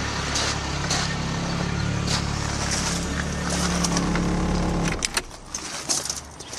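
VW Scirocco GTX's 1.8-litre DX four-cylinder engine idling steadily, with a few light clicks. The engine sound drops away about five seconds in.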